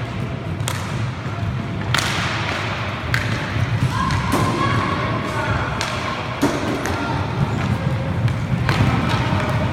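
Inline roller hockey play: sharp knocks of sticks and puck striking each other and the boards, scattered several times over a steady low rumble in the rink.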